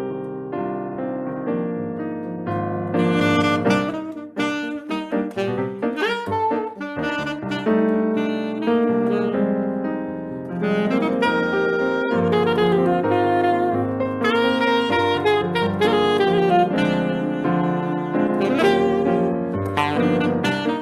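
Saxophone and piano playing Brazilian music live. The piano plays alone at first, and the saxophone comes in with a melody about three seconds in.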